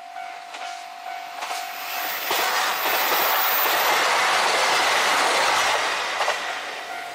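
JR Hokkaido KiHa 261 series diesel express train passing at speed: a rushing noise of wheels and engines that swells about two seconds in and fades near the end, with clicks of the wheels over rail joints. A level-crossing alarm rings steadily under it, drowned out while the train is closest.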